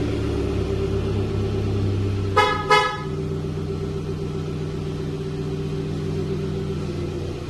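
A 2012 Hyundai Avante MD's engine, just started by remote start, idling steadily. Two short horn toots sound about two and a half seconds in, and the idle settles slightly lower right after them.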